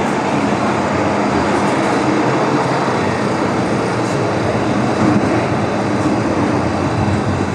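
MTR M-train electric multiple unit running at speed, heard on board: a steady rumble of wheels on rail and running gear, with a faint steady hum.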